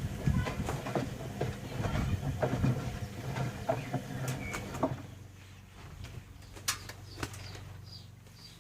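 Bauknecht WA 1460 front-loading washing machine in its wash phase: the drum tumbles the laundry with irregular knocks and rattles over a low motor hum. About five seconds in the tumbling stops, leaving a quieter steady hum and a couple of clicks as the drum pauses between turns.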